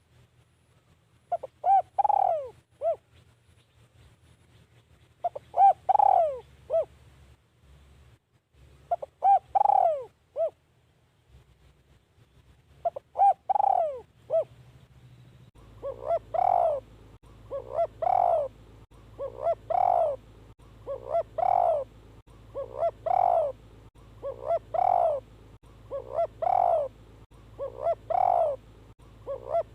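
Spotted dove cooing, the call of a decoy bird used in dove trapping. In the first half it gives phrases of several coos about every four seconds. From about halfway it calls faster and louder, roughly once every second and a half to two seconds.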